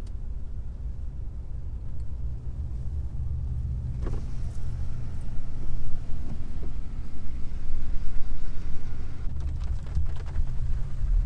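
Road noise inside a moving car: a steady low rumble of tyres and engine, growing somewhat louder, with a faint click about four seconds in.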